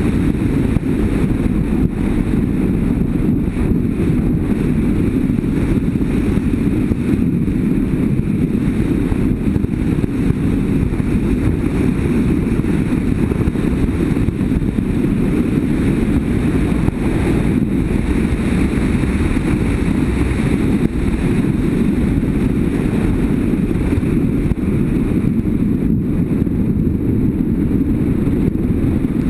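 Motorcycle under way at a steady pace: an unbroken low rumble of engine, wind and road noise on the camera's microphone, with no change in speed.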